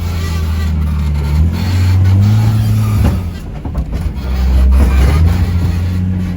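Off-road vehicle's engine revving up and easing off in surges while crawling a rocky obstacle, with a few knocks about halfway through.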